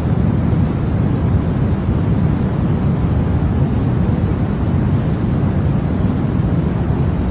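Continuous white noise for baby sleep: a loud, unchanging hiss weighted toward the low end, like a deep rush, with no rhythm or breaks.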